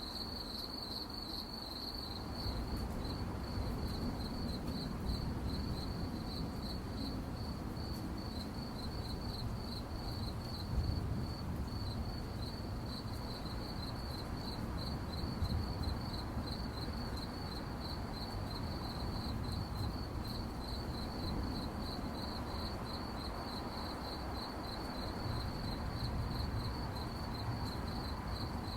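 Crickets chirping at night in a steady, even, high-pitched pulsing chorus, with a low rumble underneath.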